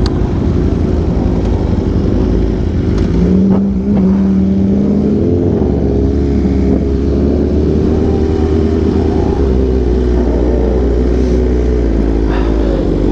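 Motorcycle engine running under way, heard from the rider's own bike. The engine pitch rises a little about four seconds in, then holds steady. A separate steady tone sounds for about two seconds near the start.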